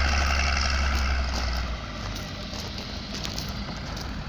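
An engine running with a low steady drone, which drops away just under two seconds in and leaves a steady hiss.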